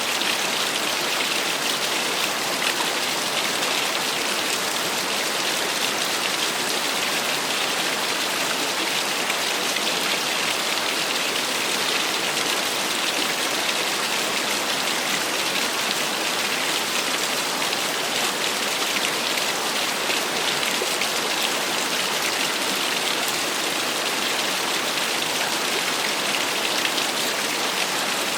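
Small waterfall splashing steadily: an even, unbroken hiss of falling water.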